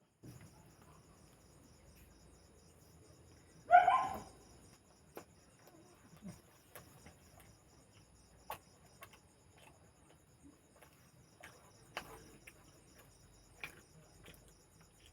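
Crickets chirping steadily in the background, with scattered soft clicks of eating. About four seconds in comes one short voiced sound from the eater.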